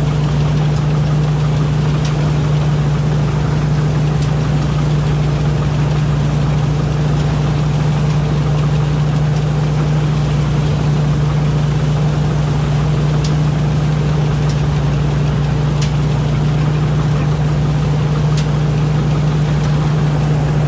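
Rice combine harvester running steadily while harvesting: an even, unchanging engine drone.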